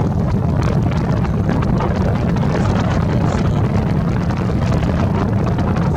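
Strong gusting wind buffeting the microphone: a loud, steady rumble.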